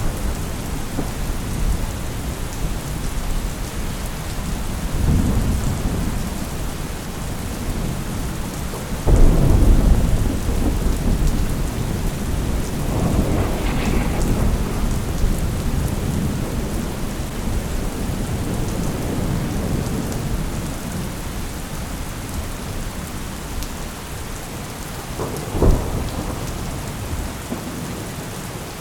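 Thunderstorm: steady rain falling, with thunder rolling through it. A loud rumble breaks in suddenly about nine seconds in, softer rolls come around five and thirteen seconds, and a sharp crack of thunder sounds near the end.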